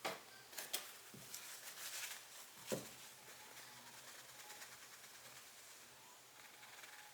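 Faint handling noises from a Nikkor-P.C 85mm lens being taken apart: a few sharp metallic clicks and taps at the start, just under a second in and near three seconds, with light scraping between, as the cemented middle lens group is wiggled side to side out of its barrel.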